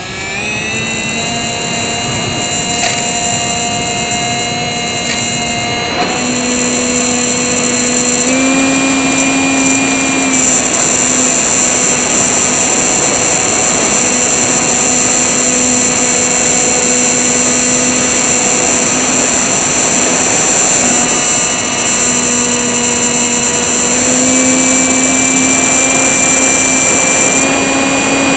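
Small brushless RC motor (RCX NK1103, 10000KV) spinning a 3-inch propeller, heard from a camera on the airframe: a steady high whine that steps up and down in pitch several times.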